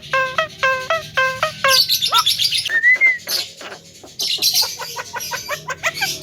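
Javan myna (jalak kebo) singing: a run of repeated pitched notes, then a rising whistle and an arched whistle, then fast chattering that quickens toward the end.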